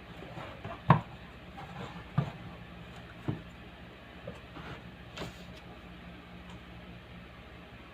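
Steady low electrical hum from a speaker, with a few sharp clicks and knocks about one, two and three seconds in.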